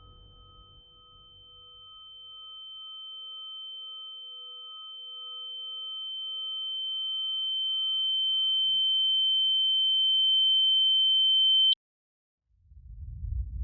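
A steady high-pitched ringing tone that grows louder for about twelve seconds and then cuts off abruptly, over fainter pulsing lower tones that fade out partway through. After a brief silence, a deep rumble starts near the end.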